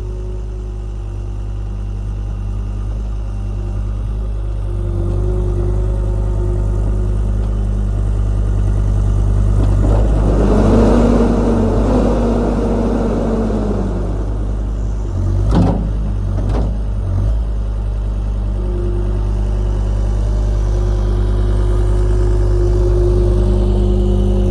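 A vehicle engine running steadily, revving up and back down about ten seconds in, with a few sharp knocks a few seconds later.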